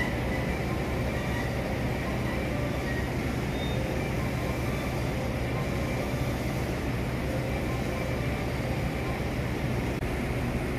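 Electric train at a station platform, a steady low rumble and hum with a few faint steady tones and no rise or fall in level.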